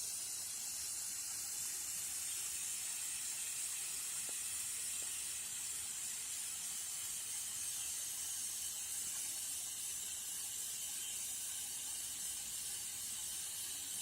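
Steady high-pitched hiss that holds unchanged throughout, with no voice.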